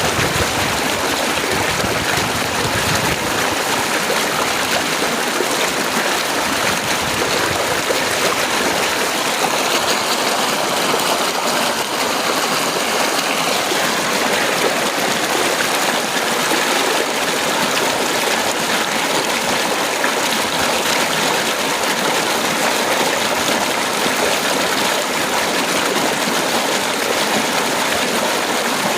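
Heavy rain falling in a steady, dense hiss, with no thunder heard.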